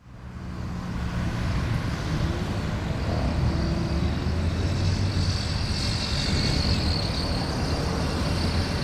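Steady rumble of jet engines, with a high whine that grows stronger around the middle.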